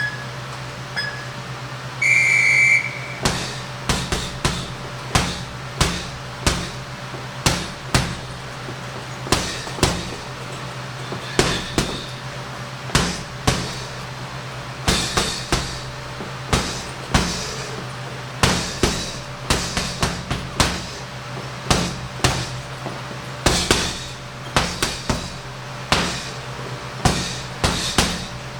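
Punches landing on a heavy punching bag in irregular strings of one to several blows, over a steady low hum. They start just after short beeps and a longer tone about two seconds in, the signal of an interval timer.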